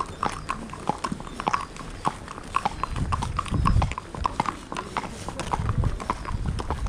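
Horses' hooves clip-clopping on a hard surface, many sharp, uneven steps, with a low rumble swelling about three seconds in and again near the end.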